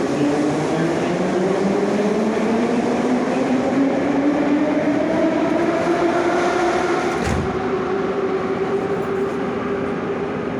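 Moscow Metro 81-717/714 train running, its traction motors and gearing giving a whine that climbs steadily in pitch as the train accelerates, over steady running noise. About seven seconds in there is a single sharp clunk, and the whine then levels off.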